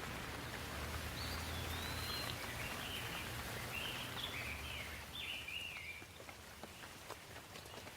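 Steady rain falling, with a songbird singing one warbling phrase of quick rising and falling notes for a few seconds. The rain eases a little near the end, leaving scattered single drips.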